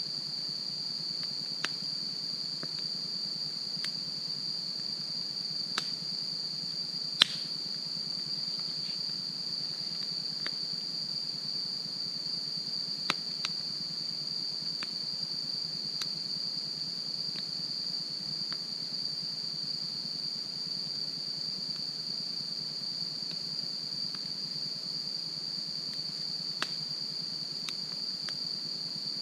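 Wood fire crackling with scattered sharp pops, the loudest about seven seconds in, over a steady high-pitched chorus of crickets.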